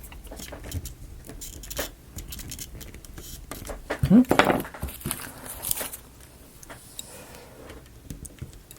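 Small clicks and rattles of a wooden marble-run model being handled, with its steel ball bearings clicking against the wooden parts. A brief rising squeak stands out about four seconds in.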